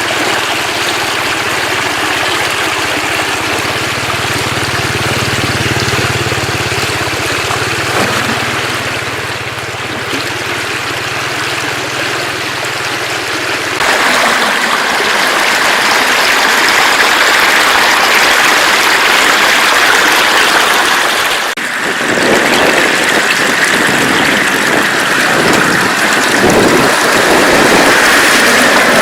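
Loud, steady rushing water noise, from floodwater flowing or heavy rain. The noise changes abruptly about fourteen seconds in and again about eight seconds later. A low hum sits under it through the first half.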